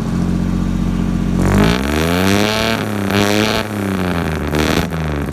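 1953 GMC truck's 235 inline-six engine with Fenton headers running at idle, then revved twice, its pitch rising and falling each time.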